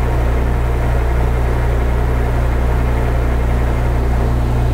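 Metal lathe running steadily at about 200 rpm, its motor and gearing giving a constant low hum, during a single-point threading pass with the lead screw engaged.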